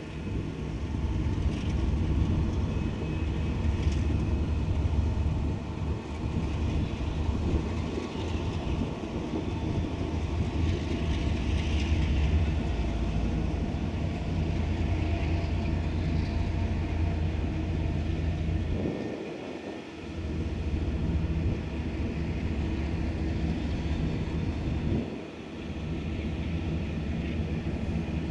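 Empty iron-ore wagons of a long freight train rolling past with a steady low rumble and a faint high steady tone, the sound dropping away briefly twice in the last third.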